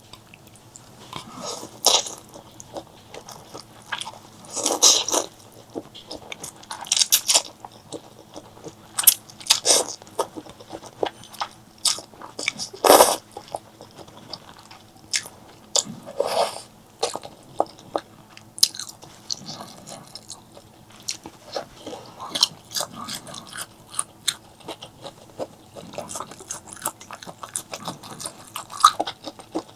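Close-miked eating: a person biting and chewing food, with irregular crunchy bites and wet chewing sounds.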